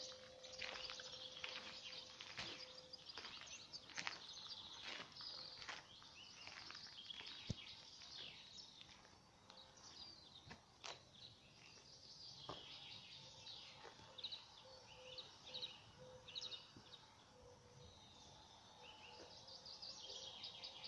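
Faint outdoor birdsong: several songbirds chirping and singing in short repeated notes, with a few soft clicks in between.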